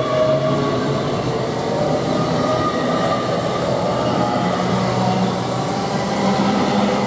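LNER Class 801 Azuma electric train pulling out of the station. Its traction motors whine, rising in pitch early on over a steady rumble of wheels on rails.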